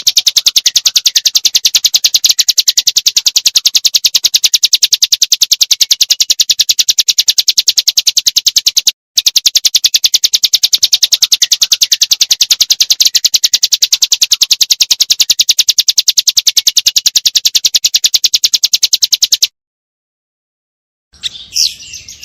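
A small songbird's rapid trill: a long run of fast, evenly spaced high notes, broken once briefly about nine seconds in and stopping about three seconds before the end, followed by a short chirp at the very end.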